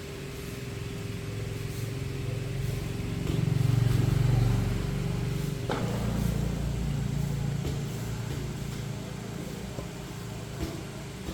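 Motorcycle engine running, swelling louder for about a second around four seconds in, then settling back to a steady hum.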